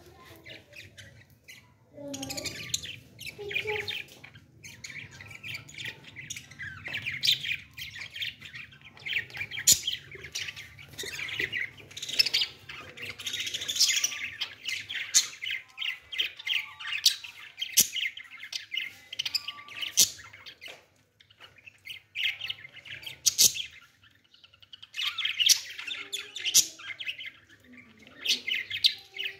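Small birds chirping rapidly and almost without a break, with a couple of short lulls, over a low steady hum.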